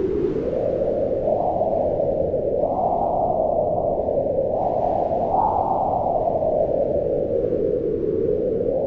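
Howling wind: a steady rush of noise that swells and sinks in slow gusts, rising in pitch about three seconds in and again around five seconds in before settling lower.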